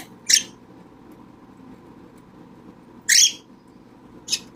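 Cockatiel giving short, high-pitched calls: two near the start, one about three seconds in, and a weaker one near the end.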